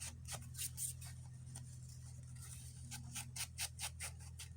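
Quick, irregular scratchy strokes, several a second, of an ink applicator being rubbed along the edge of a paper piece to ink it, over a faint steady electrical hum.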